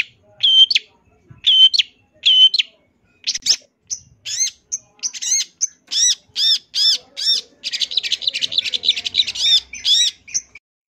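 Long-tailed shrike (cendet) singing: short, sharp high notes about once every 0.8 s, then quickening into a run of arched chirps and a fast chatter near the end before it stops.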